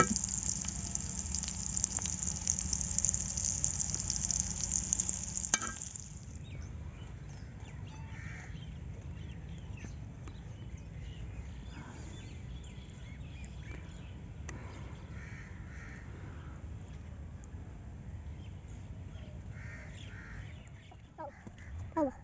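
Chicken tikka pieces sizzling hard in oil on a hot iron tawa, which cuts off suddenly about six seconds in. Then crows cawing now and then over a steady low rumble.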